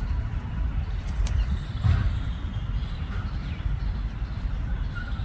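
A few faint short parrot calls over a steady, uneven low rumble.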